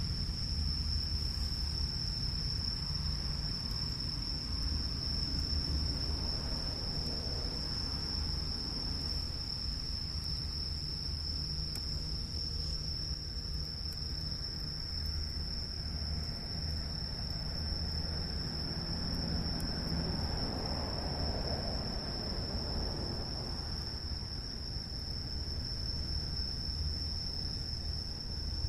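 Insects singing in a steady, unbroken high-pitched chorus, over a steady low rumble.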